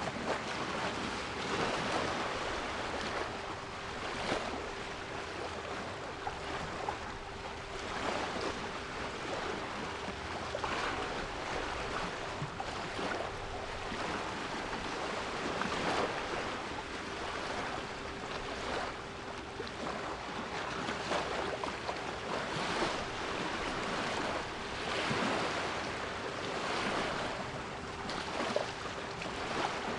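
Sea waves washing and breaking in irregular surges every few seconds, with a steady 396 Hz pure tone held underneath.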